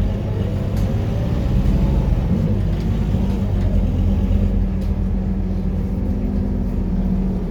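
Scania K230UB single-deck city bus's five-cylinder diesel engine running under way, a steady low drone whose pitch drifts slightly up and down.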